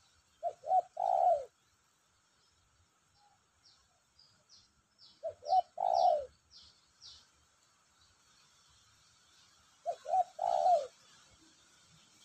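Spotted dove (tekukur) cooing three times, about five seconds apart, each phrase two short coos and then a longer, falling coo. Faint high chirps from a small bird come between the first and second phrases.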